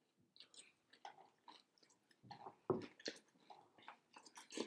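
A person chewing and biting crunchy dry cereal eaten from a bowl with a spoon: irregular small crunches, with a few louder ones past the middle.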